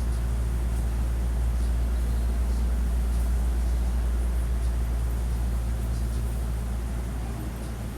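Steady low hum inside a Hankyu 1300 series train standing at a station, its onboard equipment running while the doors are open.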